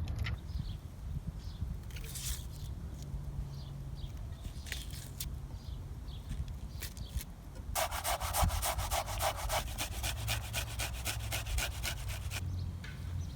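Fast, even scraping strokes, about six a second, starting around eight seconds in and stopping about four seconds later, over a low steady rumble with a few scattered clicks before them.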